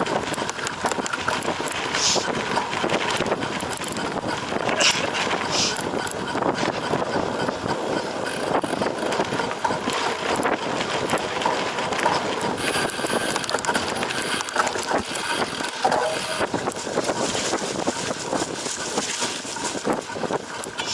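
Cyclocross bike being raced over rough ground: continuous tyre noise and rattling from the bike, with a few brief hissing bursts.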